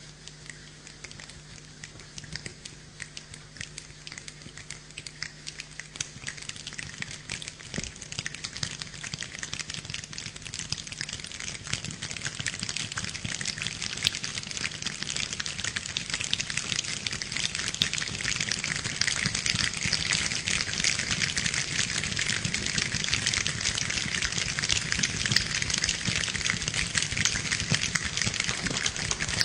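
A group of people imitating rainfall with their hands: scattered clicks that thicken into a dense patter, growing steadily louder like a shower building up.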